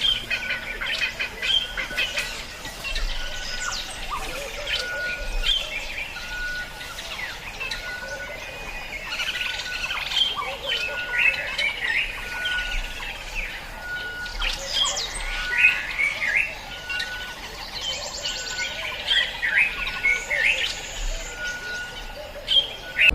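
Birds chirping and calling, with many short rising and falling chirps. A short, steady note repeats evenly about once a second underneath.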